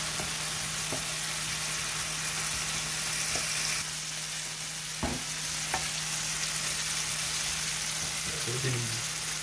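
Diced potatoes, onions and tomatoes sizzling in oil in a frying pan, stirred with a wooden spoon that knocks against the pan a few times.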